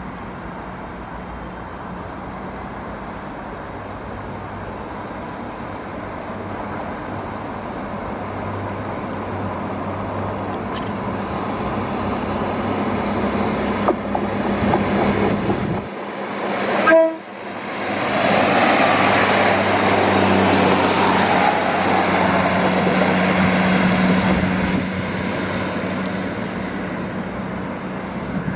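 Diesel passenger train pulling away from the station, its engine hum building steadily as it gathers speed. A short horn toot sounds about 17 seconds in, followed by the loudest stretch as the train draws past, easing off near the end.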